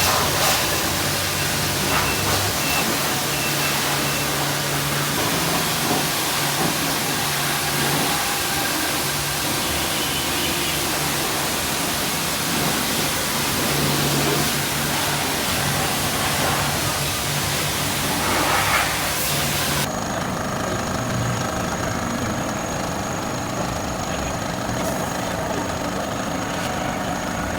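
Pressure washer spraying water on a motorbike: a steady hiss over a low motor hum, the hiss turning duller about twenty seconds in.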